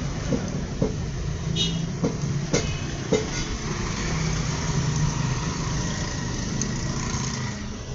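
A few sharp knocks in the first three seconds, typical of tools being worked on a tyre, over a steady low hum of vehicles and engines.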